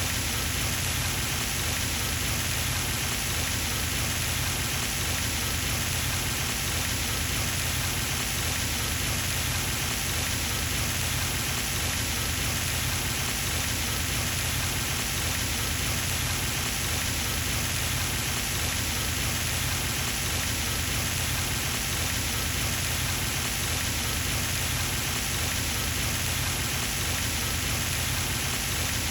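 Pond fountain splashing steadily, an even rushing patter of falling water that does not change.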